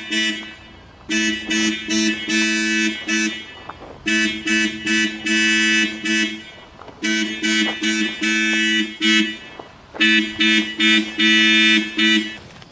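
Loud electronic two-note tone, pulsing in a rhythmic pattern. The pattern comes in groups of about two seconds that repeat roughly every three seconds.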